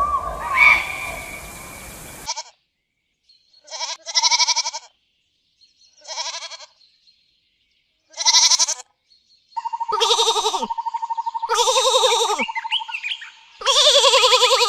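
Goats bleating: about seven separate quavering bleats after a sudden cut, the last three longer and louder. Before the cut, short bird chirps over a steady rushing hiss.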